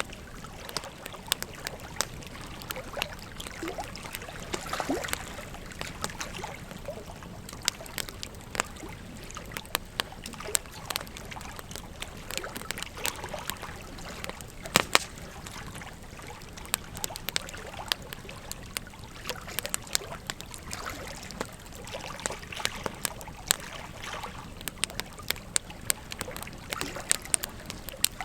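Wood fire crackling with frequent, irregular sharp pops over the steady rush of a flowing river. One pop about halfway through is louder than the rest.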